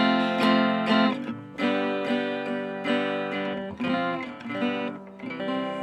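Outro music: acoustic guitar strumming chords, the last chord left ringing as it fades.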